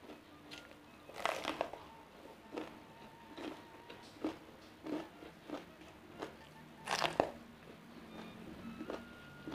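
Crisp crunching bites into a raw bitter melon, chewed with the mouth closed. Two louder crunchy bites come about a second in and about seven seconds in, with short chewing crunches roughly every half to one second between them.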